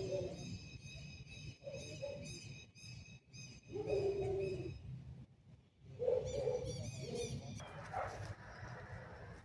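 Birds calling in woodland: a few low, drawn-out cooing notes like a dove's, with higher chirping calls above them in the first few seconds and again about six seconds in, over a steady low rumble of distant road traffic.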